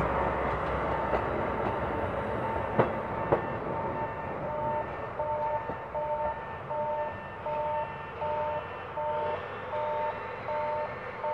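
KiHa 40 diesel railcar moving away over the rails, with a couple of wheel clicks over rail joints, its noise fading over the first few seconds. Then a repeating electronic two-note alarm beeps steadily, about one and a half times a second, like a Japanese level-crossing warning.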